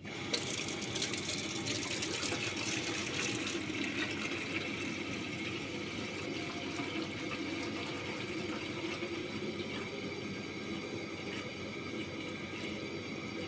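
Water running steadily, with scattered splashes and clicks through the first few seconds.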